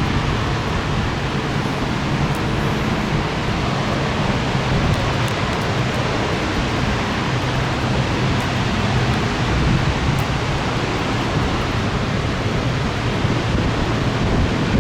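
Thunderstorm rain and gusty wind: a steady, even rushing noise with a low rumble underneath.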